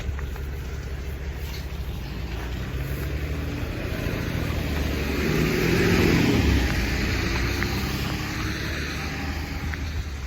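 A car passing by: its engine and tyre hiss swell to a peak about six seconds in, then fade away.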